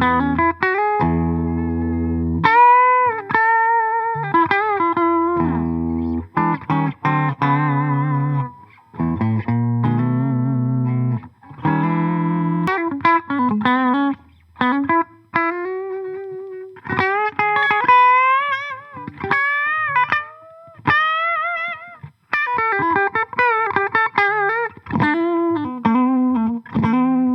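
Clifton dual-humbucker Telecaster-style electric guitar played through an amp: sustained chords in the first few seconds, then melodic single-note lead lines with string bends and vibrato.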